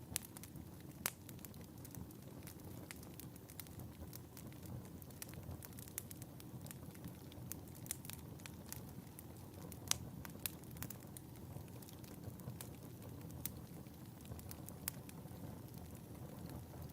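Fire burning in a fireplace: a low steady rumble of flames with irregular sharp crackles and pops throughout. The loudest pops come about a second in and about ten seconds in.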